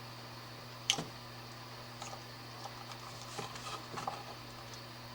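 Small hand-tool sounds from stripping the outer jacket of an electrical cord: a sharp click about a second in, then light ticks and scrapes, over a steady low hum.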